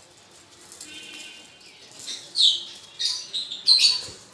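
Caged lovebirds and budgerigars chirping: faint high calls early on, then loud high chirps about halfway through and a cluster of them near the end.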